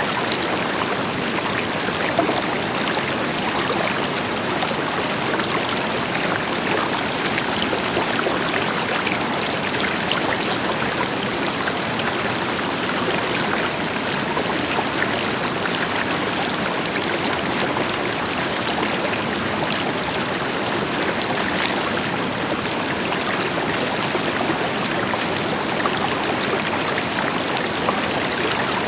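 A river flowing steadily over rocks, with many small splashes and gurgles above the even rush of a distant waterfall.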